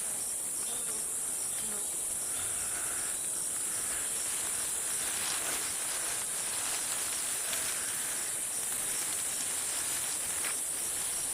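Tropical rainforest insects calling in a dense evening chorus: a steady, unbroken high-pitched trill, with faint scattered calls beneath it.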